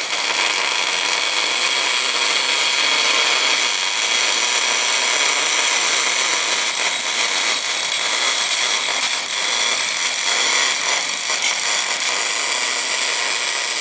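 Wire-fed MIG/MAG welding arc of an Elsa Supercombinata Compact, sizzling and crackling steadily during an orbital weld on cast iron, with a settled, even arc that the welders say sounds good.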